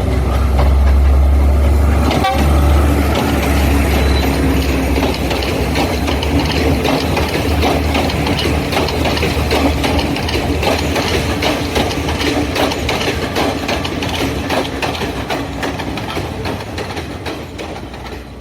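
Train running along the rails: a steady low rumble with a dense clatter of the wheels, fading out near the end.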